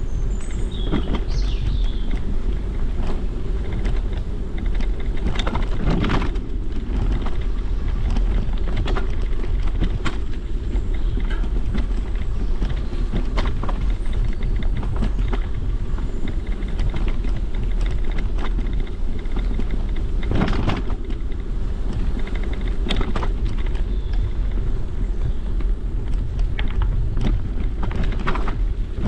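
Wind buffeting the microphone over the steady rumble of a bicycle riding along a trail, with frequent short knocks from bumps. The loudest knocks come about six and twenty seconds in.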